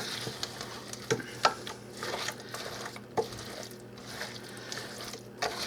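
A spoon stirring thick soup ingredients in a pot, with a few light clicks of the spoon against the pot.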